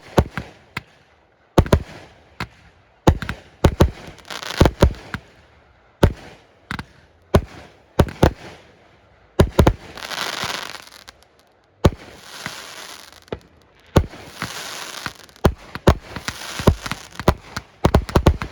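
Aerial fireworks going off: a rapid series of sharp booms, broken by several stretches of crackling from crackle shells about a second long each.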